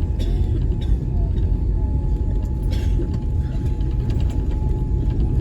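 Steady low cabin rumble of a Boeing 787-8 Dreamliner taxiing, with a faint steady whine and a few small clicks and rattles.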